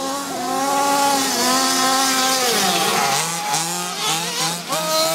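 Small two-stroke engines of gas-powered radio-controlled cars, an MCD monster truck among them, running hard with a chainsaw-like buzz. The pitch holds high, dips about halfway through, then rises and holds again.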